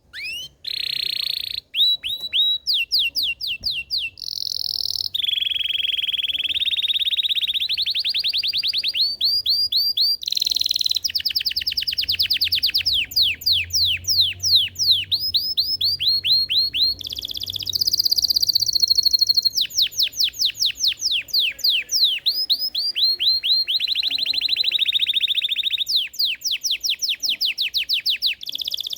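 Belgian canary singing a long, continuous song of rapid trills and rolling phrases, changing from one phrase to the next every second or two after a brief break about a second in.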